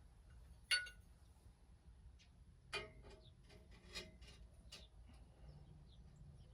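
Faint, scattered clinks and knocks of metal hardware being handled. The loudest, about a second in, rings briefly, and a few lighter ones follow around three, four and five seconds in.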